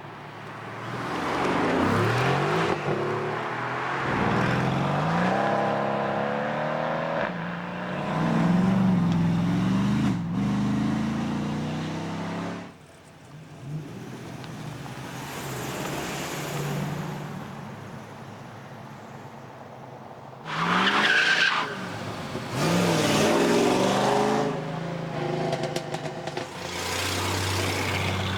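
American V8 muscle cars accelerating hard as they leave a car meet, engine pitch climbing again and again under full throttle. A second car's loud acceleration begins about two-thirds of the way through.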